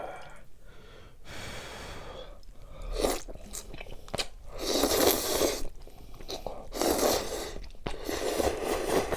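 A person eating close to the microphone: chewing and crunching mouth sounds, with four noisy bursts of about a second each.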